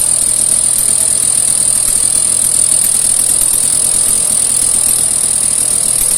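Scooter engine running steadily, with a constant high-pitched whine over it.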